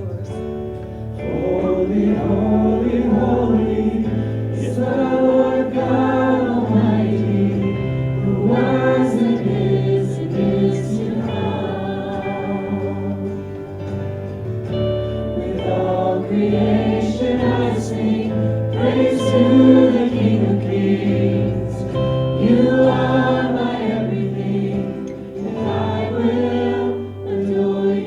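A contemporary worship song verse sung with instrumental accompaniment: sung phrases with vibrato over sustained low chords, with short breaks between lines.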